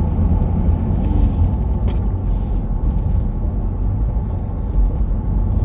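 Steady low rumble of a vehicle driving, heard from inside the cabin: engine and road noise.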